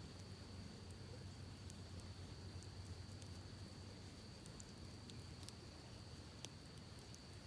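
Campfire crackling faintly, with sparse small pops and one sharper pop about six and a half seconds in, over a steady high-pitched insect trill and a low steady rush.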